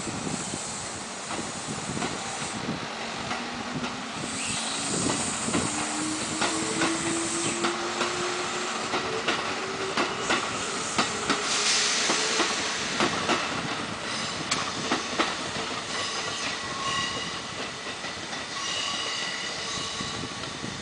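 Train running by on the rails, wheels clicking over rail joints, with a whine that rises steadily in pitch for about ten seconds as it picks up speed.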